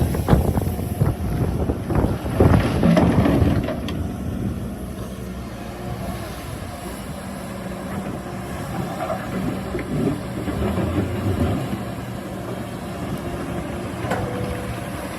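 Excavator's diesel engine running steadily, with loud knocking and clattering over the first four seconds or so.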